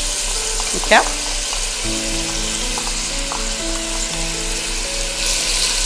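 Chopped onion and meat sizzling in hot oil in a stainless steel pot, stirred with a wooden spatula; a steady frying hiss.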